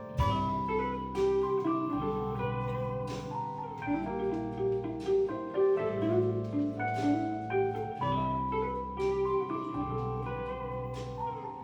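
Live band playing an instrumental passage of a jazz-funk song: held keyboard chords over a bass line, a moving melodic line and drum hits on a steady beat.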